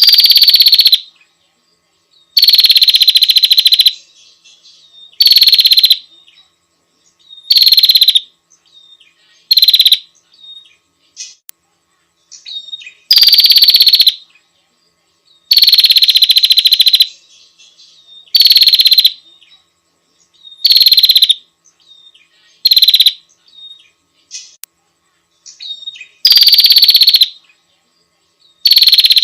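Female prinia (prenjak) calling to a male: a loud, fast, buzzy rattle repeated about every two to three seconds, each call lasting up to a second and a half, with faint short chirps between.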